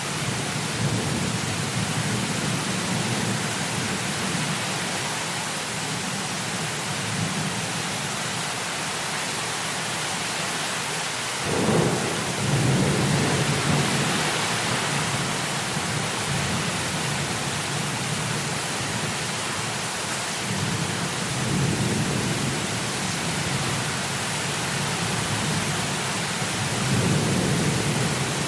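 Heavy rain falling steadily under rolling thunder. Low rumbles swell and fade several times, and the loudest, sharpest clap comes about eleven seconds in.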